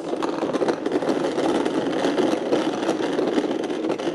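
Car engine running at idle, a steady dense sound with a rapid pulsing.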